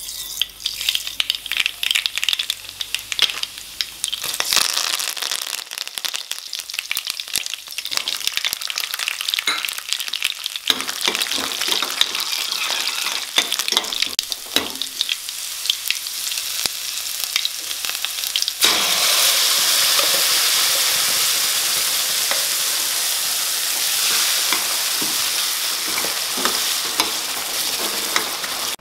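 Mustard seeds crackling and popping in hot oil in a stainless steel kadai, then garlic and curry leaves frying. About two-thirds of the way through the sound changes abruptly to a louder, steady sizzle, and by the end thick tomato purée is frying in the oil.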